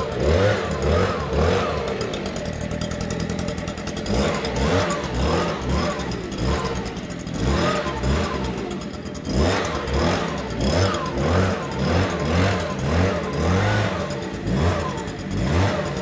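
Small gas engine, a leaf blower's, revving up and down over and over, its pitch rising and falling about once or twice a second.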